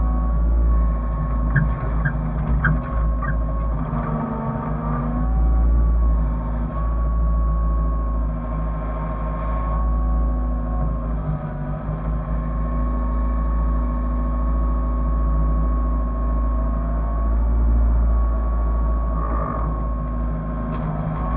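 Hyundai excavator's diesel engine running steadily under a strong low rumble, with a whine that dips in pitch now and then as the machine works. A few light clicks come near the start.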